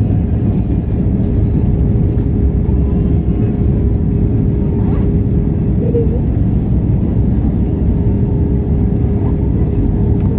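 Airbus A320 cabin noise: the steady low rumble of the engines and airflow, with a faint steady hum running through it.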